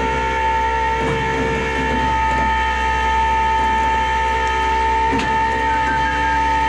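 A steady mechanical whine made of several held tones, with a couple of faint clicks.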